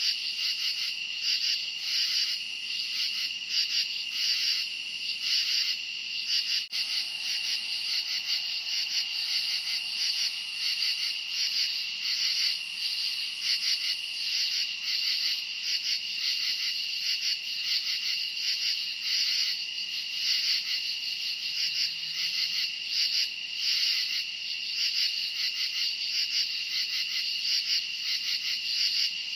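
Night chorus of crickets: a steady high trill with louder pulsing chirps layered over it, about three pulses a second.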